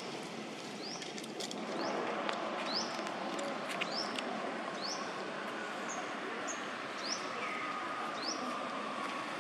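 A bird calling repeatedly with short, high, upward-sweeping chirps, about one and a half a second, over steady outdoor background noise with a few faint clicks.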